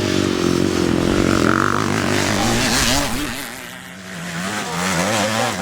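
Classic motocross bikes racing, engines revving up and down in pitch as riders work the throttle. The sound drops a little after the middle, then builds again.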